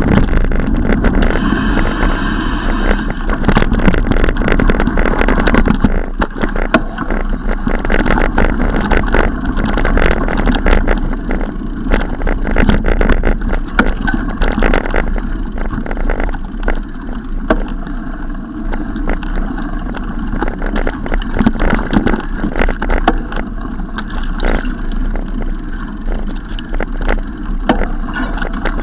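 Sound of riding a bicycle: wind rushing over the microphone, with the bike knocking and rattling over bumps in the road. A brief high-pitched tone sounds about two seconds in.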